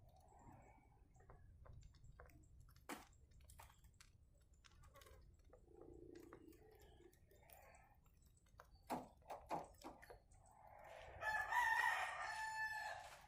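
A rooster crows once near the end, a drawn-out call of about two seconds. Before it there are a few sharp clicks and a fainter, lower call.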